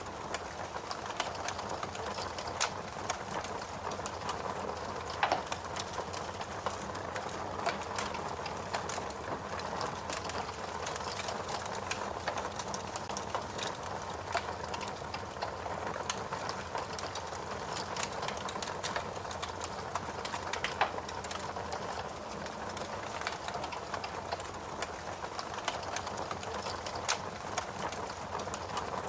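Wood fire burning, a steady hiss with dense crackling and occasional louder pops.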